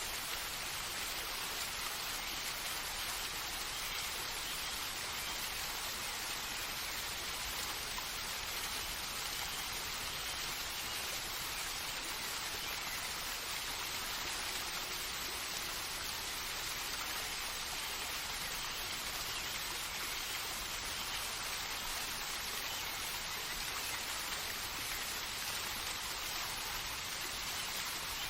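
Steady rainfall: an even, unchanging hiss with no separate events.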